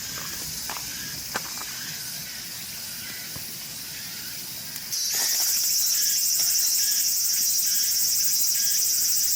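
A steady high-pitched chorus of summer insects, growing clearly louder about five seconds in. A few faint clicks and taps sound in the first two seconds.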